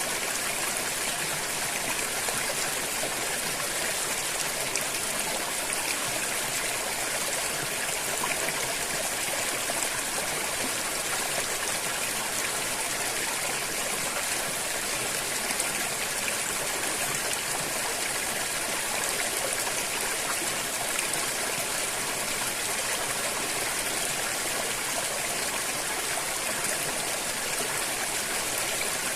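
River water flowing and trickling over stones, a steady rushing hiss that does not change.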